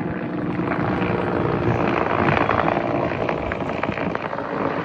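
Search-and-rescue helicopter flying nearby, its rotor and engine noise mixed with strong wind on the microphone.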